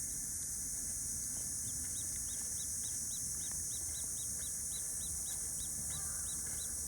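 Common kingfisher calling: a run of short, high, repeated calls, about three a second, starting a second and a half in, over a steady high-pitched hiss.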